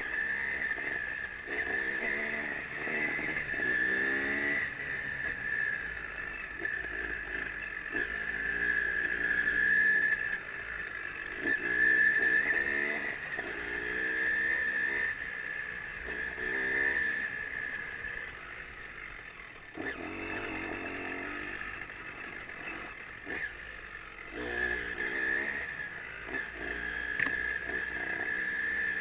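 Dirt bike engine revving up and down in repeated short rises and falls, over a steady high-pitched whine.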